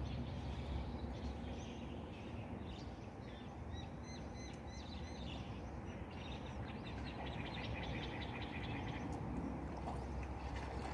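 Small birds chirping: several runs of short, quickly repeated high calls, over a low steady rumble.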